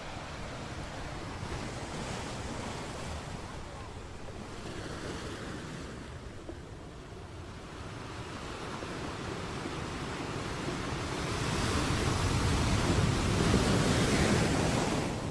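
Sea surf: waves washing in, building over the second half to a louder breaking wave that falls away near the end.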